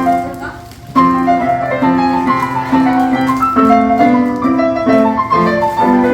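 Piano playing a melody over chords. The notes die away briefly just after the start, then the playing resumes about a second in and carries on.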